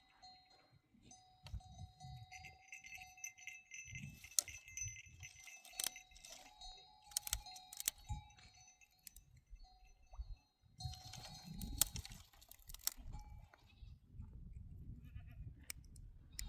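A herd of goats and sheep with livestock bells clinking and ringing on and off, and a few scattered bleats.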